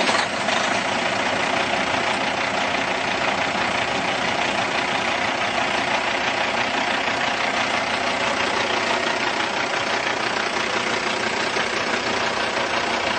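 Caterpillar C15 inline-six diesel of a 2003 Kenworth T2000 idling steadily just after start-up. The sound stops abruptly at the end.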